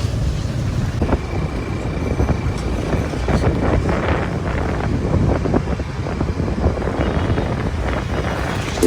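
Road noise of a moving vehicle, a steady low rumble with wind buffeting the microphone.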